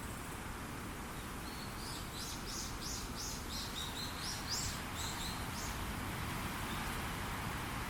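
Strong wind rushing steadily through forest trees, with a songbird singing a quick run of high chirps from about a second and a half in until about halfway through.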